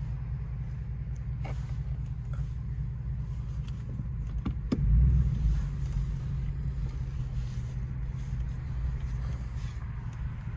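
2004 Ford Explorer's 4.6-litre V8 running through a Cherry Bomb glasspack muffler, a steady low exhaust rumble that swells louder about five seconds in, with a few sharp clicks just before the swell.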